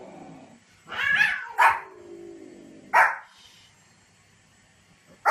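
Small dog barking, a few sharp, high yaps spaced irregularly, the last one right at the end.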